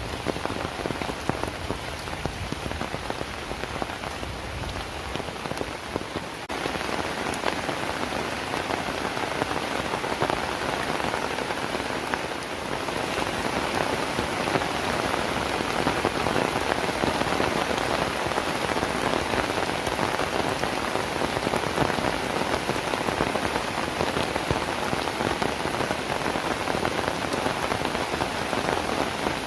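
Heavy rain falling steadily, a dense hiss of many drops hitting surfaces, growing louder about six seconds in.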